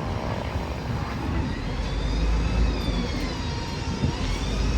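A heavy road vehicle's engine rumble growing louder, with a high whine that glides down in pitch and back up near the end.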